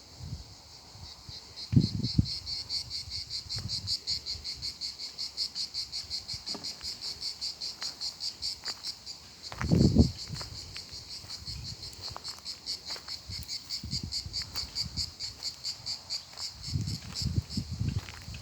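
An insect calling in a steady run of rapid high-pitched pulses, about five a second. Low thumps come about two seconds in and again, loudest, near the middle.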